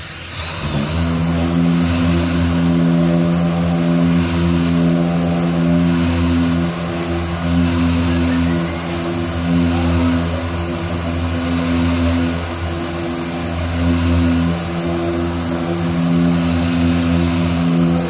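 A machine's motor running steadily with a low, even hum, its level swelling and easing slightly every couple of seconds.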